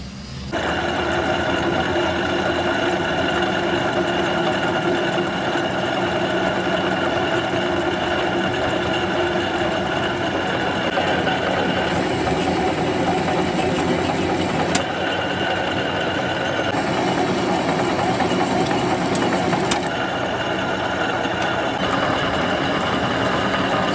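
Metal lathe starting up about half a second in and then running steadily with a whirring hum, its tone shifting a few times as it works.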